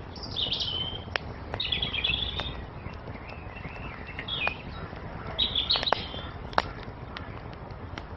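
Small songbirds chirping in four short bursts over the steady hiss of a crackling wood fire, with sharp pops from the burning wood scattered through.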